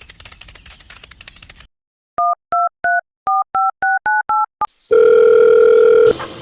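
Rapid clicking for about a second and a half, then telephone keypad dialing tones: nine short two-note beeps, followed by a steady tone lasting about a second.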